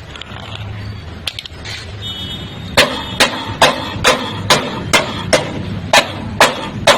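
Hammer striking a car's sheet-metal body panel during dent repair: sharp ringing blows at an even pace of about two a second, starting near the three-second mark over a low steady hum.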